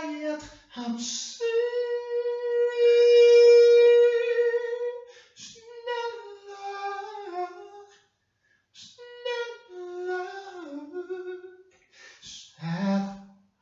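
A voice singing without words: one long held note, then slow wandering melodic phrases with a brief pause partway through.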